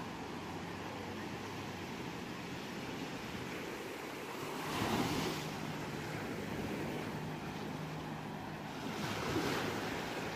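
Ocean waves washing on a shore in a steady hiss, with two waves surging louder, one about halfway through and one near the end.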